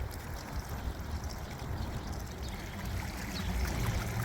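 Strong gusty wind buffeting the microphone: a low, fluctuating rumble with a rushing hiss over it.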